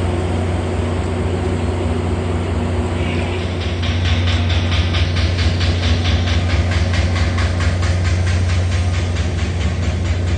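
Freight train passing close by: a steady low rumble throughout, joined from about three seconds in by a fast, regular clatter of wheels over the rail joints.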